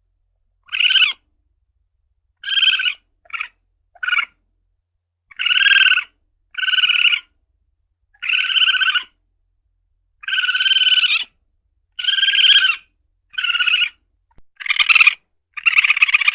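Civet (luwak) calling: a run of about a dozen short, buzzy calls. Each lasts under a second, and they repeat roughly every second and a half with silent gaps between.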